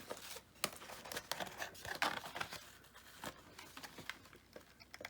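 Irregular rustling, crinkling and small clicks from craft materials being handled, thickest around the middle and thinning out toward the end.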